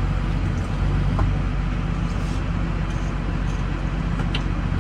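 Farm vehicle engine running steadily with a low drone while it reverses, pulling a feeder wagon.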